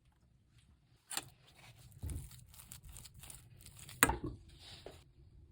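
Kitchen handling sounds: crinkling and rustling, with a sharp click just after a second in and a louder knock about four seconds in.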